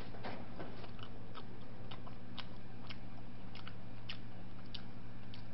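Close-up chewing and biting of crispy fried chicken: irregular crunchy clicks, about two or three a second, over a steady low hum.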